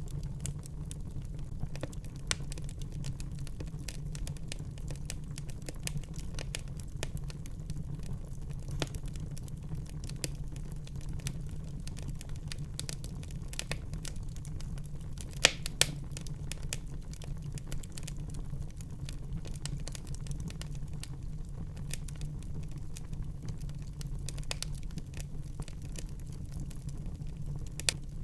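Wood fire burning in a fireplace: a steady low rumble of the flames with frequent sharp crackles and pops from the burning logs, the loudest two pops about halfway through.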